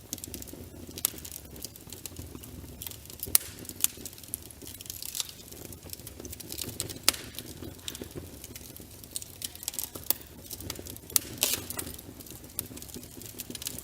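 Wood fire burning in a fireplace, crackling with many irregular sharp pops over a steady low rumble of flames.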